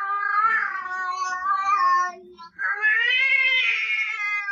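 A cat giving two long, drawn-out meows, about two seconds each, with a short break between them; the second rises and then falls in pitch.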